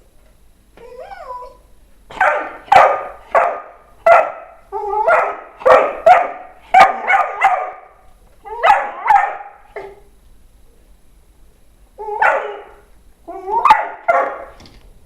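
A dog barking in quick strings of short, pitched barks, starting with a brief whine. The barking pauses for about two seconds and then starts again near the end.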